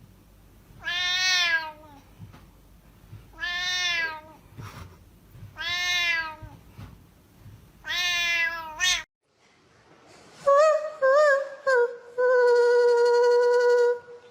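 A cat meowing four times, about two seconds apart, each meow rising and then falling in pitch. After a break, a different high call wavers for a moment and is then held steady for about two seconds.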